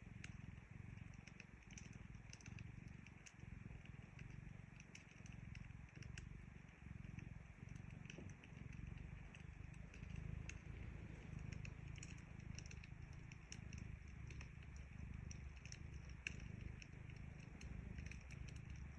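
A cat purring steadily and low, with faint scattered crackles and ticks from a wood fire.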